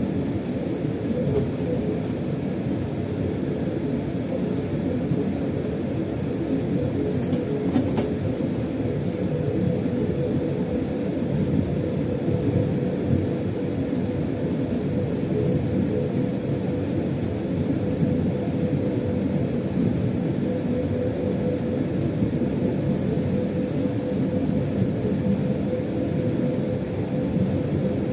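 A freight train running, heard from inside the locomotive cab: a steady low rumble with a faint constant tone. About seven seconds in there are three short high-pitched sounds.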